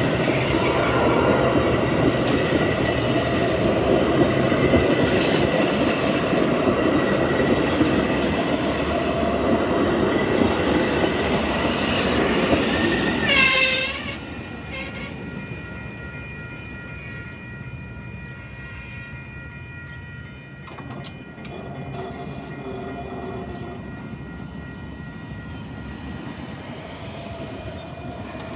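Train passing close by, its wheels and cars rumbling loudly, then dropping off suddenly about halfway through as the last car clears. A quieter stretch follows with faint steady ringing tones.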